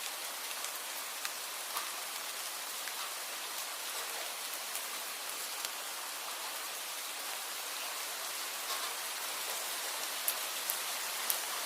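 Steady rain falling, an even hiss with scattered individual drops ticking sharply, a few louder drops near the end.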